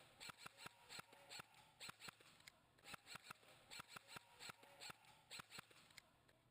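Faint airsoft guns firing: sharp, irregular pops, about three to five a second, in a long string.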